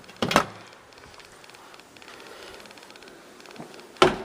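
Two sharp clacks, one just after the start and one near the end, with faint steady background noise between them.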